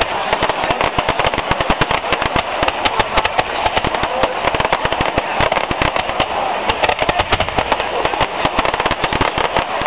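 Fireworks going off in a dense, rapid stream of sharp cracks and bangs, many a second, with no pause.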